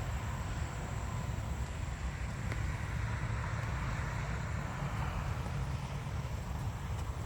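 A steady low outdoor rumble, with a faint, even high-pitched tone held above it.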